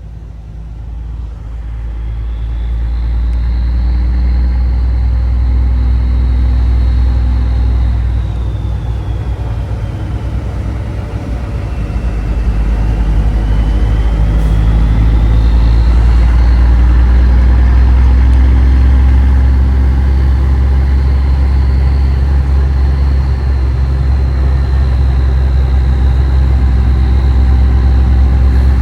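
Big-rig diesel engine running under load, heard from inside the cab, building up as the truck gets going, easing off for a few seconds about ten seconds in, then pulling hard again. A faint high whine slides down and back up along with it.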